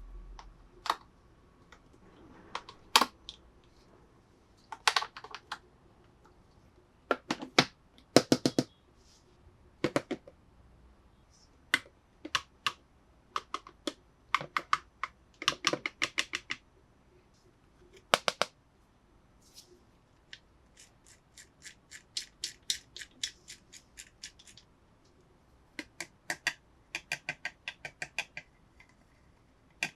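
Toy packaging and plastic pieces handled up close: scattered sharp clicks and taps, with fast runs of rapid ticking in the second half.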